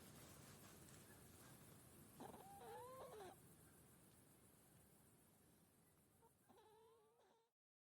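Sick hedgehog giving two faint, wavering, whimpering calls about four seconds apart, each lasting about a second. These are the calls of an ill animal. The sound cuts off near the end.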